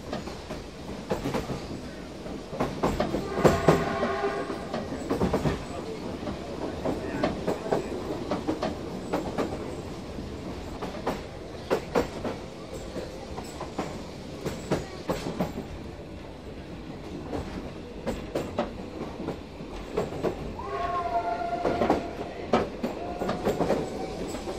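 Narrow-gauge train running, heard from inside a passenger carriage: a steady rumble with frequent irregular clicks and rattles from the wheels and coach. The locomotive's hooter sounds for about a second a few seconds in, and a brief pitched tone comes again near the end.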